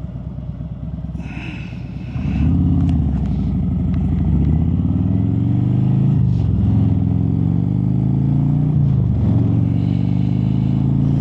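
Harley-Davidson Road Glide's V-twin engine breathing through slip-on mufflers. About two seconds in it opens up and accelerates, the exhaust growl rising in pitch. The pitch drops sharply and climbs again twice, as it shifts up through the gears.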